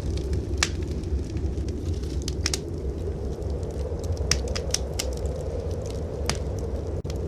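Wood fire crackling in a fireplace: scattered sharp pops, about six, over a steady low rumble of blizzard wind.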